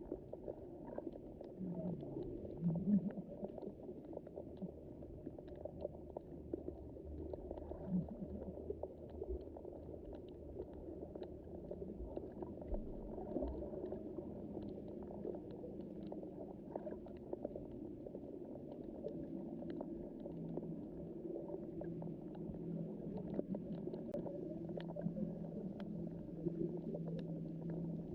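Underwater sea ambience: a muffled, steady wash of water with scattered faint clicks and crackles. From about 19 s in, a steady low hum joins it.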